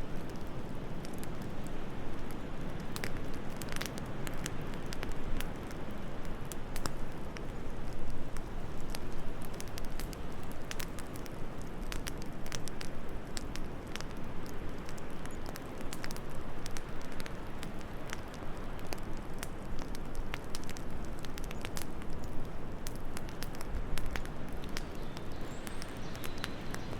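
Wood fire crackling in a fireplace, with frequent irregular sharp pops over a steady low rushing background of wind.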